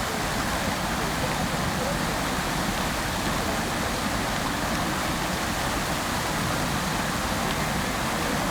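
Fountain water splashing steadily into its basin, a continuous even rush of falling water.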